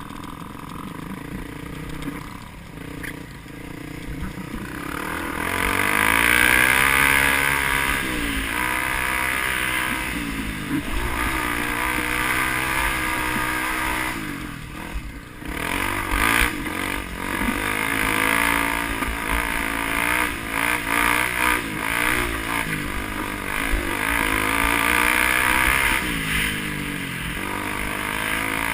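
A motor vehicle's engine revving hard, its pitch climbing and dropping again and again as it runs through the gears and backs off, with several louder pushes along the way.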